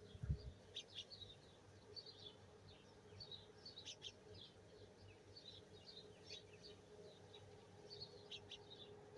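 Faint chirping of small songbirds: many short, quick chirps and trills going on throughout, with a faint steady hum underneath and a low thump just after the start.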